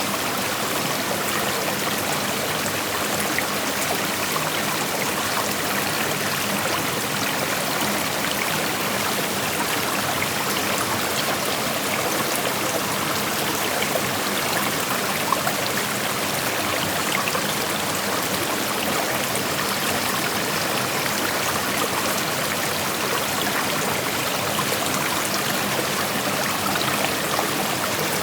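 Creek water flowing and splashing over rocks, a steady rushing with small trickles and splashes in it.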